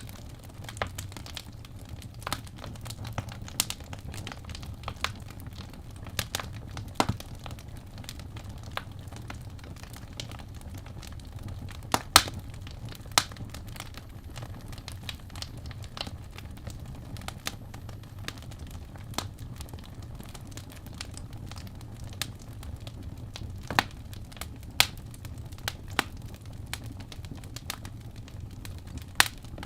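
Wood fire burning in a fireplace: irregular sharp pops and crackles of burning logs over a low steady rumble of the flames, with a few louder snaps now and then.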